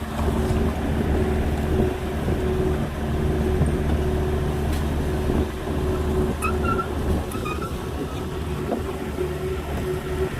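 Diesel engine of an agricultural mini excavator running steadily with a constant low hum. A few faint short squeaks come through in the middle.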